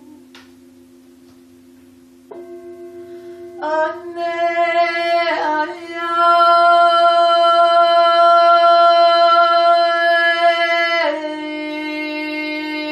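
A woman singing long, wordless held notes over a steady low drone. Her voice comes in a few seconds in and wavers, then holds one loud note. About eleven seconds in it drops to a softer, lower note.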